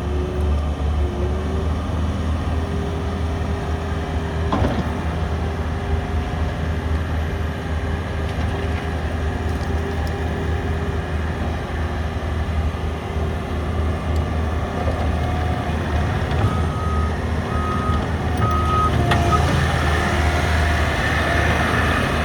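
2021 Bobcat T66 track loader's diesel engine running steadily. About three-quarters of the way through its reversing alarm beeps four times, and near the end the engine works harder.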